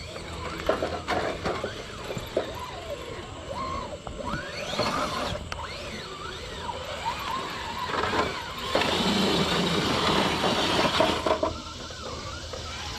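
6x6 RC crawler truck's electric motor and geared drivetrain whining, rising and falling in pitch with the throttle. A louder stretch of rough, gritty noise lasts about three seconds, starting about nine seconds in.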